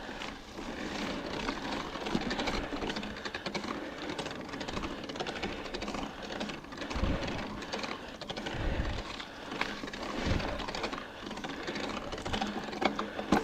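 Mountain bike being ridden over wet rock, heard through an action camera: steady rattling and rapid clicking, with a few low rumbles of wind on the microphone.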